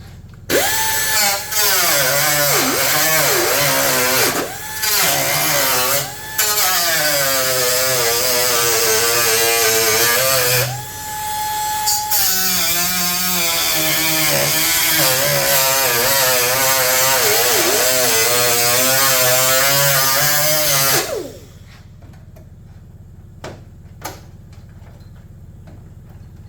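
Handheld power tool working the sheet-metal hood patch panel, with the motor whine sagging in pitch and recovering again and again as it bites into the metal. It pauses briefly a few times, runs free with a steady higher whine for about a second midway, and stops several seconds before the end.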